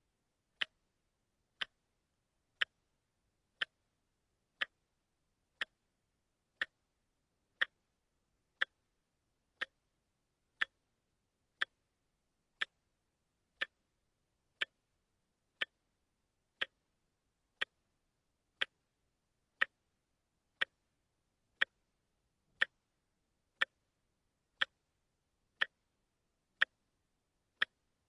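A quartz watch ticking steadily, one sharp click a second as its second hand steps.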